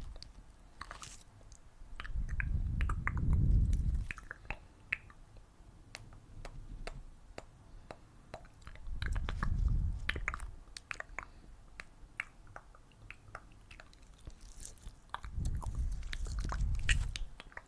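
Close-miked ASMR sounds: scattered soft clicks and crackles, with three slow, low swells of about two seconds each, the loudest parts.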